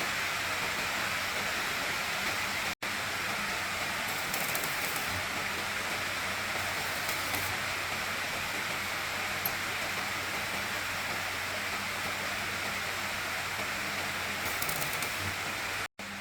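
A steady hiss with no rhythm, cut off for an instant about three seconds in and again near the end.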